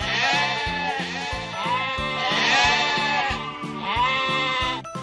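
Sheep bleating: three long, quavering bleats, each about a second long, over background music with a steady beat.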